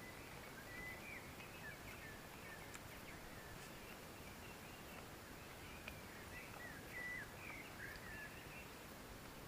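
Small birds chirping faintly: many short, quick notes, some sliding up or down in pitch, scattered throughout over a soft background hiss.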